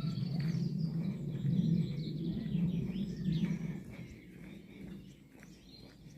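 Birds chirping and singing over a low steady rumble that fades about four seconds in.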